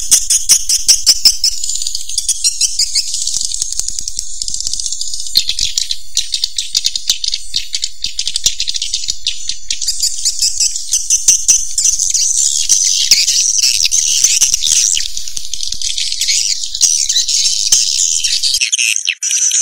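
Recorded swiftlet calls of the kind played as a lure sound in swiftlet houses: fast rattling clicks at first, then a dense, high-pitched twittering chatter. A faint low hum underneath cuts off near the end.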